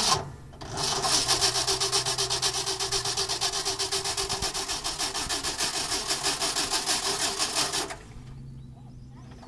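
Starter cranking the 1968 Ford F250's 390 cubic-inch big-block V8 on a cold start: a rapid, even pulsing that runs about seven seconds, then stops suddenly. A sharp click comes just before it.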